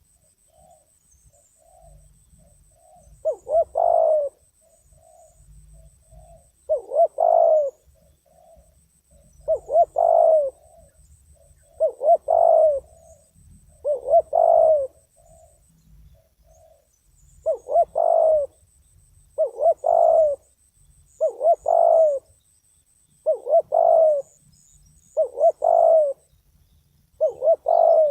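Spotted dove (terkukur), a trained decoy bird, cooing over and over: about eleven loud coo phrases, one every two seconds or so, with softer short notes between them in the first half.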